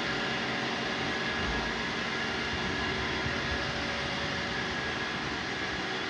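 Two Roomba robot vacuums running: a steady whir of their suction fans and brushes with a faint constant motor whine.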